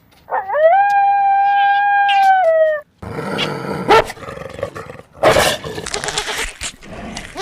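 A dog howling: one long held note that swoops up at its start and sags at its end. After a sudden break about three seconds in, a rougher, noisy stretch of animal sound follows, with several sharp bursts.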